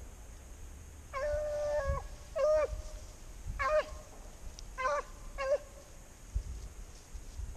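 Beagle baying in five calls, the first long and the rest shorter, each falling in pitch at the end: a hound giving voice on a rabbit's trail.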